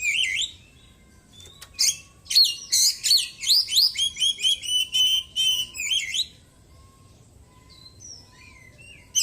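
Oriental magpie-robin singing loud, fast phrases of repeated sweeping whistles and chirps, mimicking the calls of small birds. A brief pause comes just after the start, then a long run of song, then softer scattered chirps before the loud song resumes at the end.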